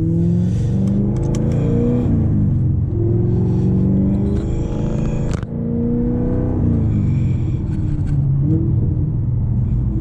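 Straight-piped 2014 Corvette Stingray's 6.2-litre LT1 V8 exhaust under hard acceleration, its pitch rising and dropping back several times as it shifts up.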